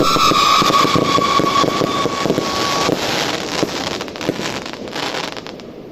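1-inch whistle-to-time-rain firework cakes: a high whistle falling slightly in pitch stops about three seconds in, over the dense crackling of the time-rain effect, which thins out and dies away toward the end.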